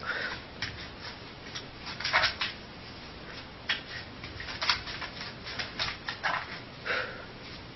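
A dog making irregular short, noisy sounds, soft scrapes and puffs at uneven intervals, over a steady hiss.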